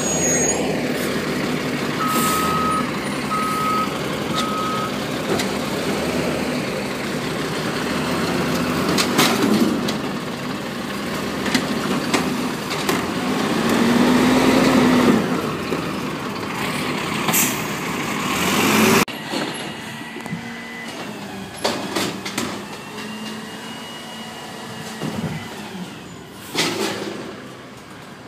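Garbage truck running, with three short reversing beeps about two seconds in, a whine that rises and falls around the middle, and several short sharp noises. The sound drops abruptly about two-thirds of the way through, after which the engine runs more quietly.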